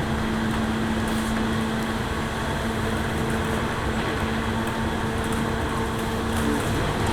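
Interior running sound of a JR 103-series electric train: a steady rumble with a faint constant hum and a few light ticks.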